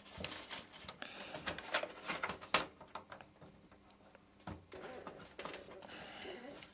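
Plastic clicks and rustling of a PC cable connector being handled and pushed into its socket. The clicks come in a quick cluster, then a pause, then a single click and light rustling.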